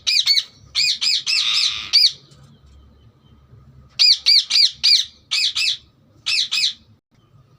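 Green parrot chirping in quick runs of short rising-and-falling calls, several a second, with a pause of about two seconds in the middle.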